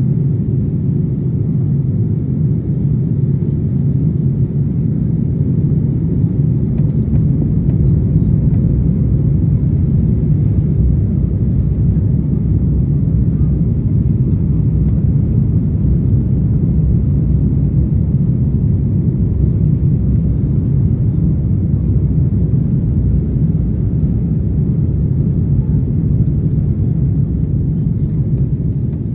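Steady low rumble of a Boeing 787-8 airliner heard from inside the cabin during descent: engine and airflow noise, unchanging throughout.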